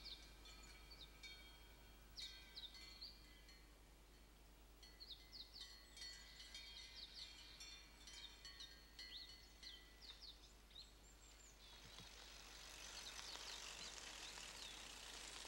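Faint birdsong: many short, high chirps scattered throughout, with a soft hiss building up near the end.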